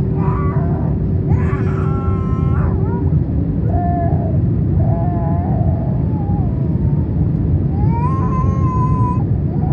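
Steady low rumble of engine and airflow noise inside an Airbus A321's cabin during descent. Over it, a young child's high, wavering cries come and go three times.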